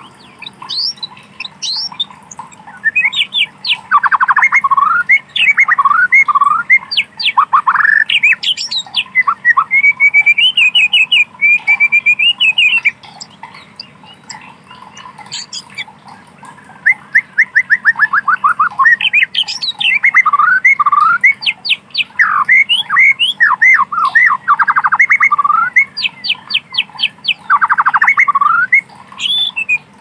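White-rumped shama singing a loud, varied song of rapid trills and sweeping notes, in two long bouts with a pause of about three seconds in the middle.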